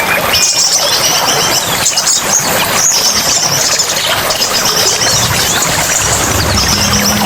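Small songbirds twittering in rapid high trills over steady rushing water. A low steady hum comes in about five seconds in.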